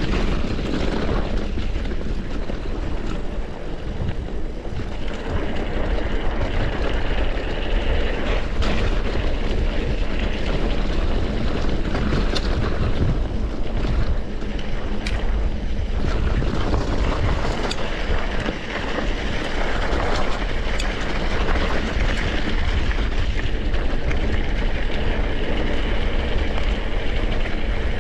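Mountain bike being ridden on a trail: steady wind rush on the microphone with tyre and frame noise, and a few sharp rattles.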